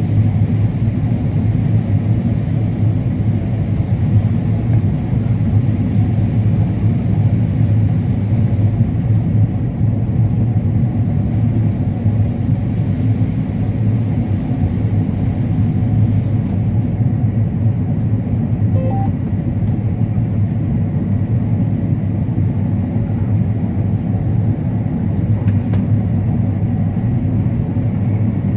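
Combine harvester running steadily while harvesting corn, heard from inside the cab as a constant low hum with no let-up.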